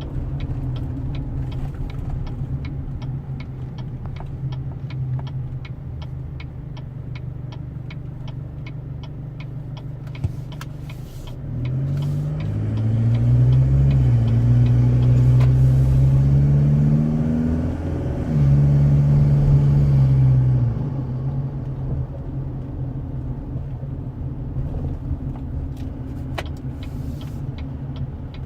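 2.8 L Duramax four-cylinder turbodiesel of a Chevrolet Colorado with an S&B cold air intake, heard from inside the cab. It drones steadily, then about twelve seconds in it pulls harder and climbs in pitch, drops briefly at a gear change, climbs again and eases back to a steady drone. A regular ticking about twice a second runs under the drone at the start and again near the end.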